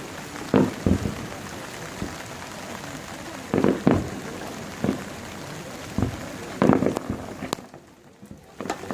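Fireworks bursting as a series of irregular booms, about ten in all, over a steady hiss of rain. The rain and the sound both cut out briefly near the end.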